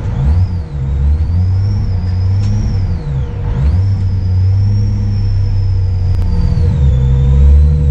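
VW Corrado G60's supercharged four-cylinder engine running hard, with a high whine that rises and falls with the revs. The revs drop and climb again for gear changes about half a second in and about three seconds in, then ease off near the end.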